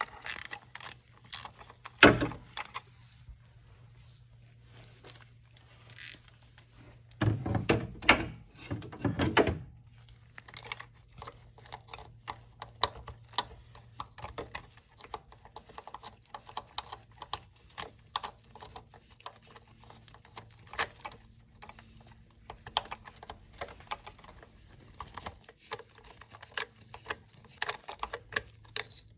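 Hand tools working on the engine: a socket wrench clicking and metal clinking and clunking as the EGR valve's 12 mm nuts are loosened, in scattered short clicks with a louder knock about two seconds in and a busier stretch around seven to ten seconds. A faint steady hum runs underneath.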